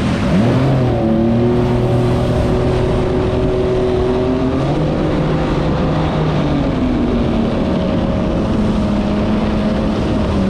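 Yamaha SuperJet stand-up jet ski's engine running under way, its pitch dipping and climbing with the throttle and dropping lower about halfway through, over rushing water and wind.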